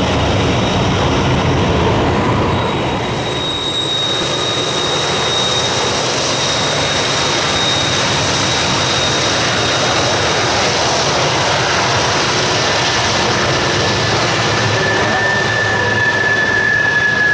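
Union Pacific freight train rolling past on a curve, with a steady rolling rumble and high-pitched wheel flange squeal against the rail. A stronger, lower squeal comes in past the middle and grows louder toward the end.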